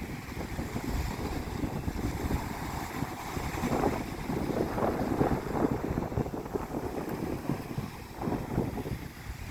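Wind buffeting the microphone over moving water, with louder swells of washing water about four seconds in and again near the end.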